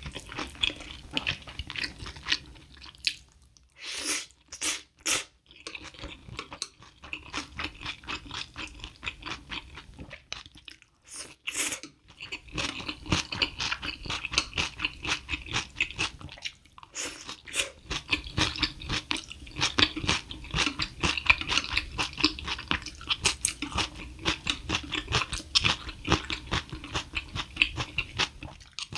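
Close-miked chewing and crunching of a mouthful of Buldak fire chicken noodles with chopped chilies, with wet mouth clicks throughout and a few brief louder sounds about four to five seconds in.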